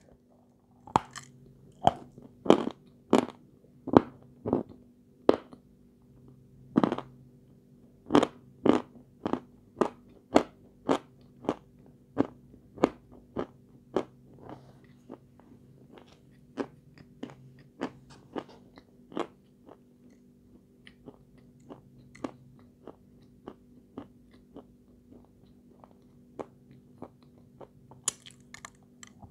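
Crisp crunching as a hard white chunk of edible chalk is bitten and chewed: sharp crunches about one or two a second, loudest in the first ten seconds and softer as it is ground down, with a fresh loud bite near the end. A faint steady hum sits underneath.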